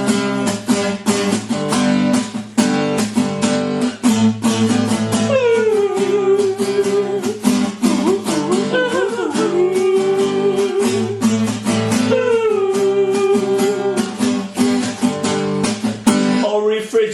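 Music: a strummed acoustic guitar playing a steady rhythm, with a gliding melody line over it about five seconds in and again near twelve seconds.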